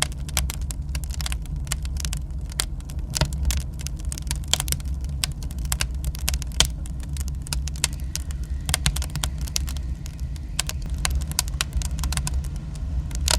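Dense, irregular crackling and sharp clicks over a steady low rumble.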